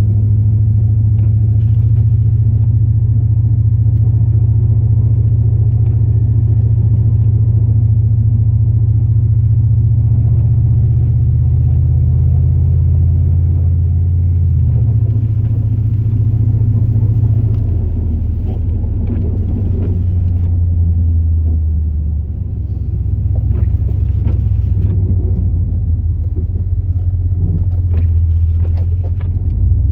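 2002 Chevrolet Silverado plow truck's 8.1-litre big-block V8 running as a steady low drone while plowing. Its pitch steps down about halfway through and again a few seconds later, it eases briefly about three quarters of the way in, and faint scattered knocks come through.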